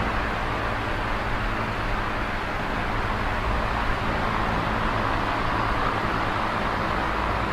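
Small electric oscillating fan running steadily: an even rush of moving air with a low motor hum underneath.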